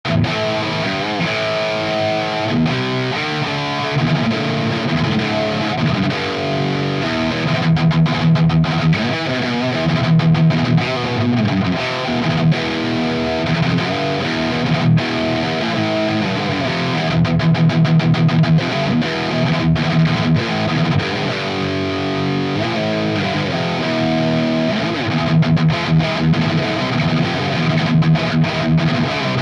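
Heavily distorted electric guitar playing rhythm riffs with chugging, palm-muted passages. It runs through a Friedman BE-100 tube amp pushed by an Earthquaker Devices Plumes overdrive used as a boost, close-miked on a Celestion V30 speaker.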